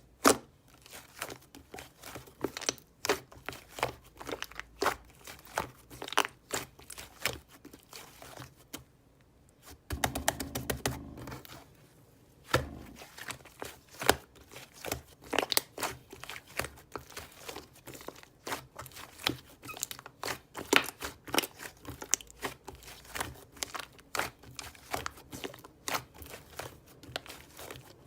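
Slime being squeezed, stretched and poked by hand: irregular small crackling pops and clicks as air pockets burst, with a denser, lower squishing rustle for a couple of seconds in the middle.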